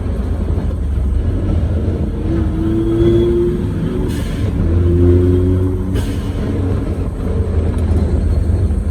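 Suzuki Jimny JA11 driving on a paved road on Yokohama Geolandar X-MT mud-terrain tyres: a steady deep rumble of engine and road noise, with a hum that swells twice.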